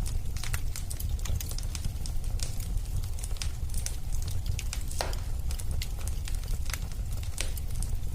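Wood fire in a fireplace crackling, with irregular sharp pops over a steady low rumble of the flames. One pop about five seconds in is louder than the rest.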